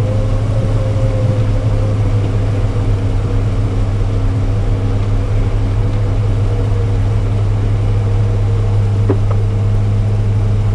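Off-road vehicle's engine running steadily at an even pitch, a constant low drone with no revving, while the vehicle sits stuck in a rut.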